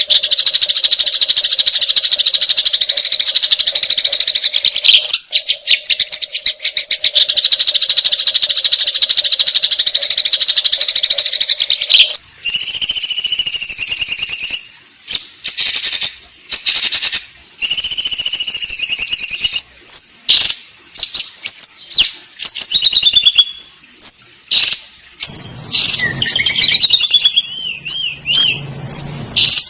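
Sparrows giving harsh fighting calls. A fast, unbroken chatter runs for about twelve seconds, then gives way to separate loud chirps with short gaps and some warbling notes near the end.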